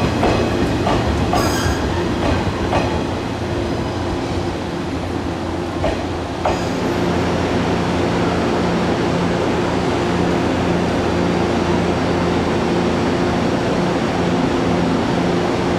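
Shinano Railway 115-series electric train at a platform: a few wheel-on-rail clicks in the first seconds, then a steady hum with a low, even tone from its onboard equipment from about six seconds in.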